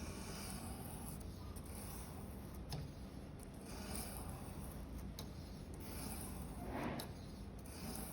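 Victorinox 10 cm paring knife blade being stroked across a whetstone: a few soft scraping strokes, the strongest near the end, as the edge is sharpened on the other side of the blade.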